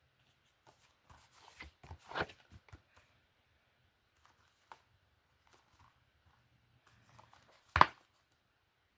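Plastic film disc cases being handled: a run of clicks and clacks, then one sharp clack near the end.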